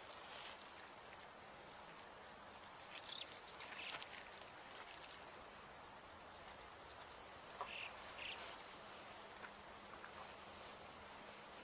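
Faint outdoor ambience with a bird's long, rapid trill of short falling chirps, about four or five a second, stopping near the end. There are a few soft rustles.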